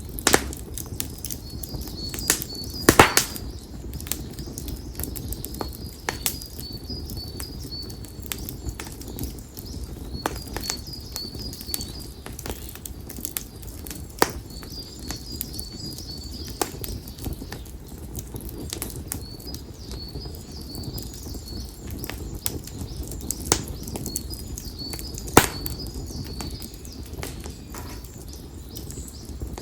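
Konara oak firewood crackling in a campfire, with sharp pops scattered irregularly, the loudest cluster about three seconds in. Over it, a bird repeats series of short high chirps.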